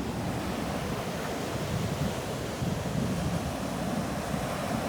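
Ocean surf washing onto the beach in a steady wash, with wind rumbling on the phone's microphone.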